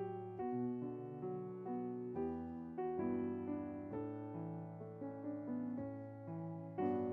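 Piano playing a slow, quiet piece, a new note or chord struck about every half second to second and left to fade.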